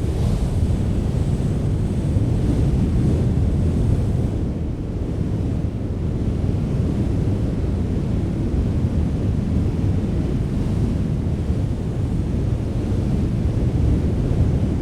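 Strong wind blowing in a steady, deep rush that swells a little now and then, with the low buffeting of wind on the microphone.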